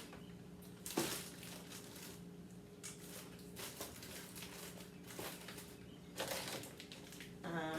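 Faint rustling and bumps of plastic-wrapped food packages being handled and set into refrigerator drawers, a few separate times, over a steady low hum.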